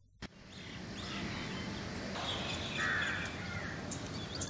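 Outdoor ambience: a steady rush of background noise with birds calling, the loudest call about three seconds in.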